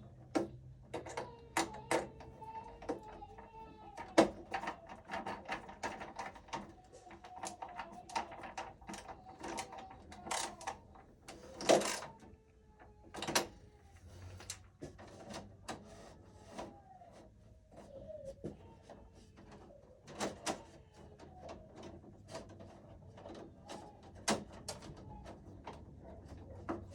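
Scattered clicks, taps and knocks of hands and tools working wiring into a breaker panel, one louder knock about halfway through. A faint wavering whistle-like tone runs under them for much of the time.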